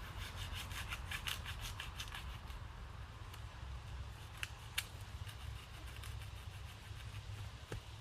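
Rubbing and rustling, with many quick light clicks and scrapes, over a steady low rumble.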